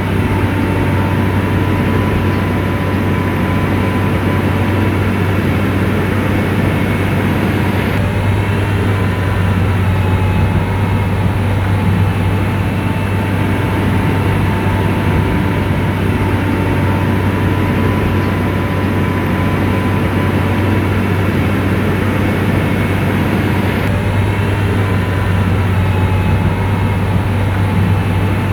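SDLG motor grader's diesel engine running steadily: a constant low drone with a faint higher whine above it.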